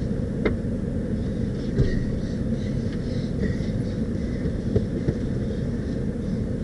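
Snow plow pickup truck driving, a steady low rumble with a few light knocks.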